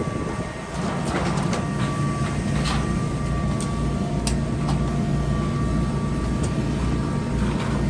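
An engine running steadily with a low hum and a steady high whine over it, with scattered clicks and creaks.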